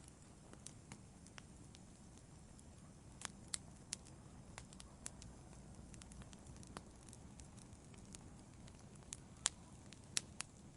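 Wood fire burning quietly: a soft low rumble with scattered sharp crackles and pops, a few louder pops in the middle and near the end.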